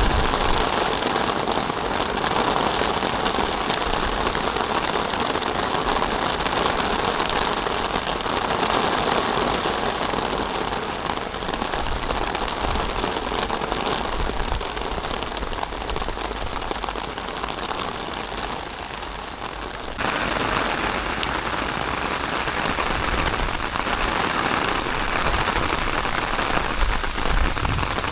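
Heavy rain falling steadily, a dense hiss of drops hitting the ground and stone, with low rumbles underneath. The level steps up abruptly about twenty seconds in.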